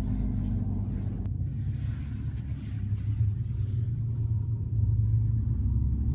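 Low, steady in-cabin rumble of the Mercedes A45 AMG's turbocharged four-cylinder engine and road noise while driving, growing louder about four seconds in.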